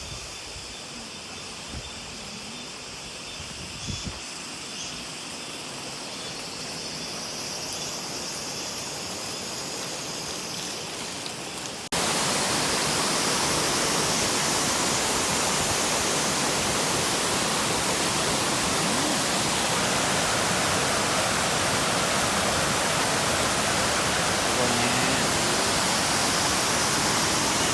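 Waterfall: steady rushing water, fairly quiet at first with faint higher sounds above it and slowly growing louder. About twelve seconds in it jumps abruptly to a much louder, fuller rush that then holds steady.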